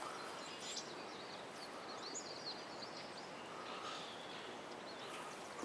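Outdoor ambience with small birds chirping, a cluster of short high chirps about two seconds in.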